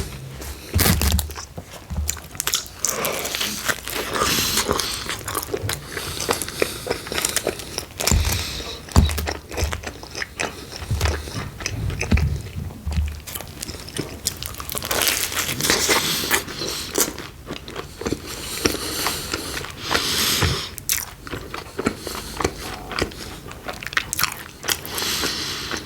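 A person biting into and chewing pepperoni pizza close to the microphone, a run of irregular crisp bites and chews.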